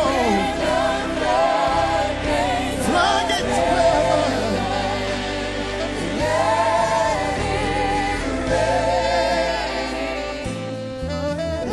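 Gospel music: voices singing long, wavering held notes over a steady low accompaniment.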